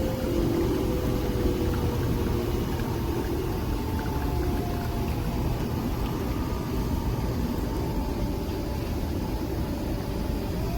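Nespresso Vertuo Next coffee machine running during a brew: a steady whirring hum from the motor spinning the capsule, with a faint tone that slowly falls in pitch.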